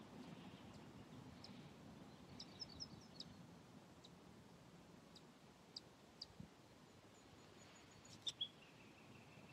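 Faint open-air quiet with small birds chirping now and then: a quick run of high chirps about two and a half seconds in, scattered single chirps after, and two louder chirps near the end followed by a thin, steady high trill.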